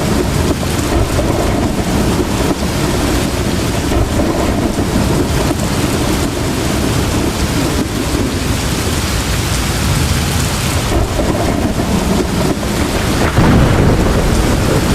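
Heavy rain pouring steadily, with a low rumble of thunder swelling near the end.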